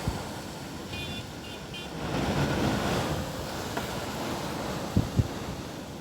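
Strong gusty wind rushing, swelling about two seconds in and easing off near the end, with two quick thumps of wind buffeting the microphone near the end.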